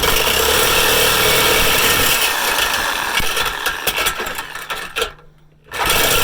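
Power saw cutting a slot into a rusted steel exhaust pipe, running steadily, then stopping about five seconds in and starting again near the end.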